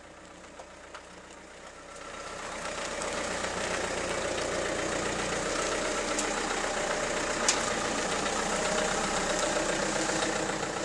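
Car engine idling, heard from inside the cabin. A steady rushing noise swells up about two seconds in and holds, with a couple of faint clicks.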